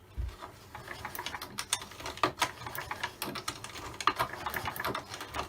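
Stihl 08S two-stroke chainsaw being turned over by hand on its starter with the spark plug out, a run of irregular light clicks and rattles from the starter and crank. The bottom end sounds not too noisy.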